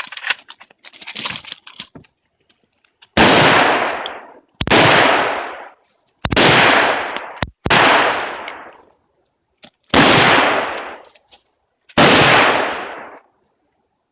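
Firearm shots during a practical shooting stage: about six single shots fired one to two seconds apart, starting about three seconds in, each with a ringing tail of about a second. Light clicks and knocks come before the first shot.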